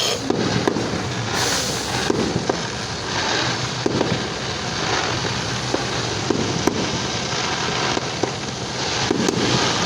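Fireworks going off in quick succession: a continuous run of bangs and crackling with no pause.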